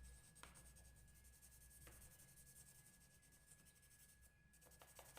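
Near silence, with the faint scratch of an oil pastel being stroked on paper and a few light ticks.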